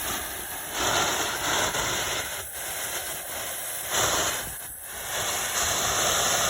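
Vintage Red Lantern Pomegranate fountain firework burning with a steady spraying hiss that swells and eases every second or two.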